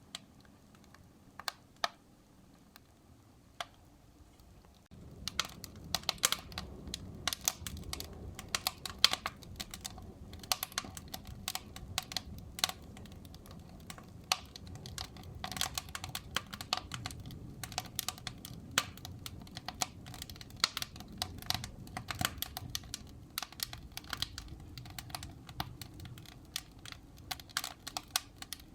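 Wood fire in a fireplace crackling and popping. At first there are only scattered pops. About five seconds in, a low rumble of flames comes in, and the crackling turns dense and continuous.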